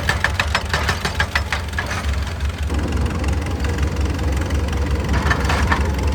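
Excavator's diesel engine running steadily, with a rapid run of sharp metallic clicks, about six a second, over the first two seconds and a short burst of them again near the end.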